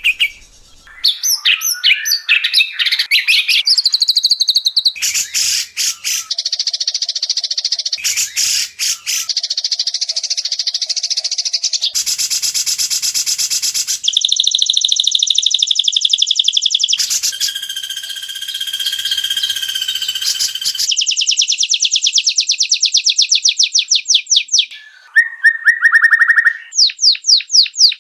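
White-rumped shama song on an edited training track: a fast, unbroken string of loud trills, rattles and rapid repeated whistled notes. The phrases change abruptly every few seconds, as spliced song segments do.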